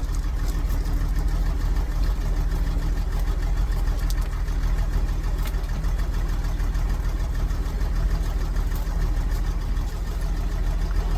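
1963 Jeep Gladiator's engine idling steadily after a hard start.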